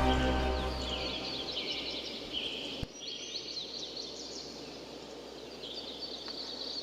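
Small birds chirping in quick, overlapping twitters over a soft noise bed, as a music track fades out in the first second.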